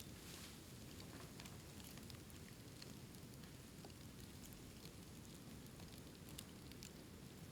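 Bamboo bonfire burning, faint crackling with scattered small pops over a low steady rush.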